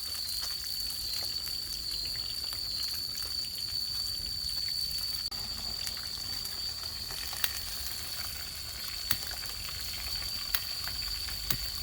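Fish frying in a pan, a steady sizzle with a few sharp pops in the second half, under a steady high-pitched whine.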